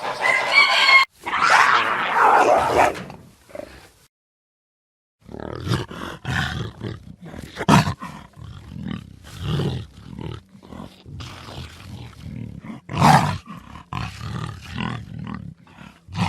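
A hen clucking for about a second, then a short animal call, a brief silence, and from about five seconds in a lion roaring in a long run of deep, pulsed grunts.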